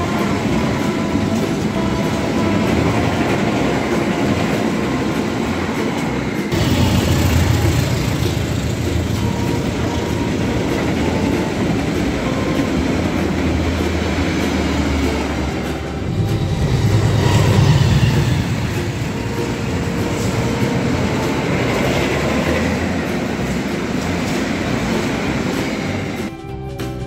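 Indonesian passenger trains running past at speed close by: the steady noise of carriages and wheels on the rails. The sound changes abruptly twice as one passing train gives way to another, and it drops off about a second before the end.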